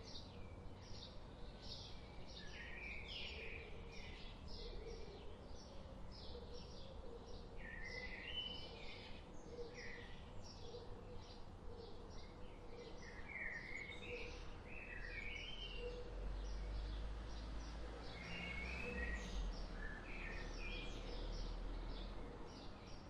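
Several wild birds chirping and calling without pause: a dense run of short, high chirps with lower, slurred two-note calls mixed in. A low rumble sits underneath through the second half.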